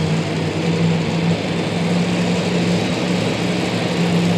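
A two-wheel-drive pulling truck's engine running loudly at a steady, unchanging note.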